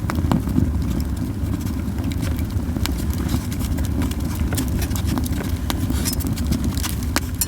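Japanese yew wood burning in a campfire, crackling with irregular sharp pops scattered over a steady low rumble.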